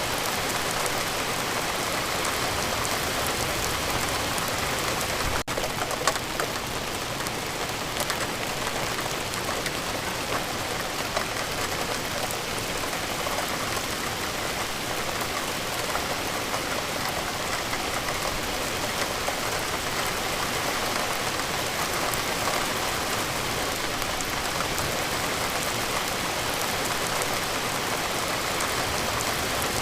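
Steady rain falling, an even dense hiss of drops on surfaces. A brief dropout about five seconds in breaks it for an instant.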